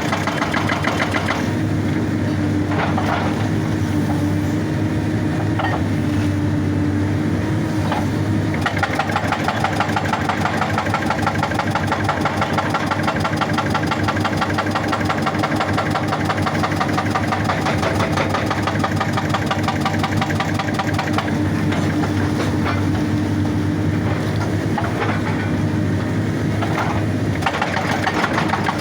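Excavator's diesel engine running steadily while its hydraulic breaker hammers rock with rapid, even blows. The hammering is strongest from about nine seconds in to about twenty-one seconds in.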